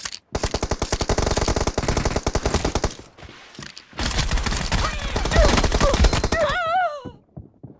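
Rapid automatic gunfire from a video game shooter in two long bursts, a pause of about a second between them. Near the end a short wavering sound falls in pitch.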